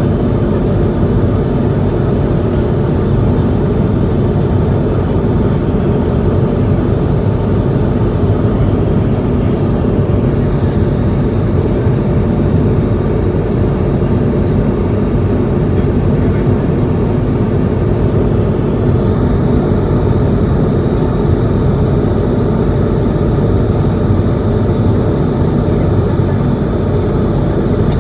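Steady, loud cabin drone of an Airbus A220-100 in cruise: the Pratt & Whitney geared turbofan engines and airflow over the fuselage making an even, low-heavy rush with no changes.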